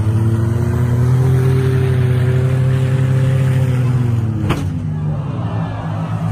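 Demolition-derby minivan engines revving hard, their pitch rising slightly and then dropping, with one sharp crash of a collision about four and a half seconds in.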